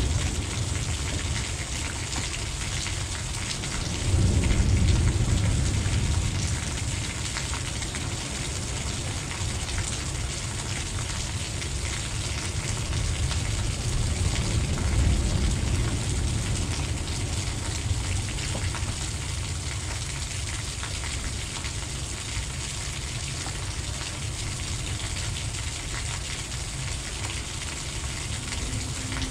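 Heavy rain falling steadily, an even hiss, under a low rumble that swells louder for a couple of seconds about four seconds in.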